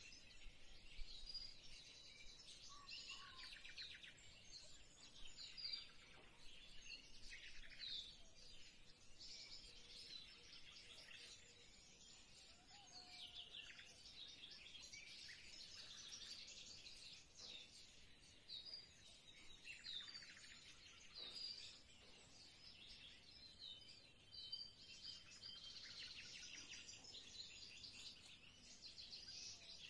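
Faint birdsong: small birds chirping and trilling in quick, high phrases that come and go.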